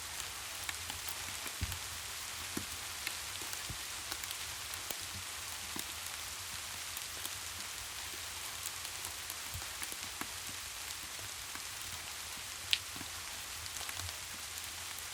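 Steady rain hiss with scattered small ticks and pops, one sharper tick about thirteen seconds in.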